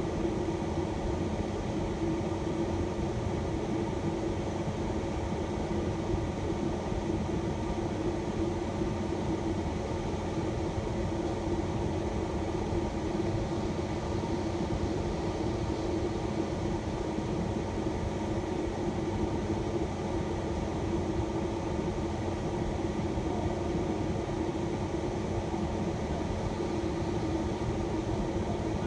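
Steady hum of a shuttle van running, heard from inside the van, with a constant droning tone and no change in level.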